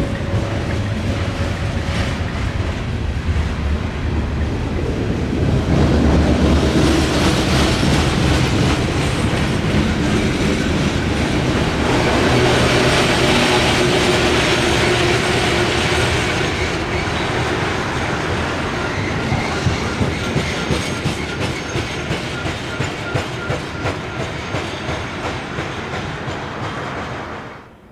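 Loaded coal hopper cars of a Norfolk Southern freight train rolling past, their wheels clicking over rail joints in a repeating clickety-clack. The sound cuts off abruptly near the end.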